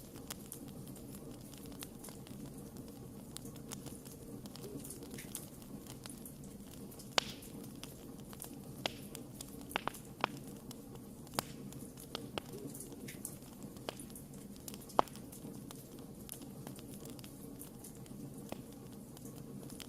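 Wood campfire crackling: a steady low rustle of burning with frequent sharp snaps and pops, a few of them much louder than the rest.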